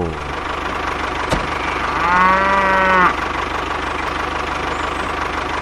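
A cow moos once, a steady call about a second long starting around two seconds in, over a tractor engine idling steadily with a low, regular knock.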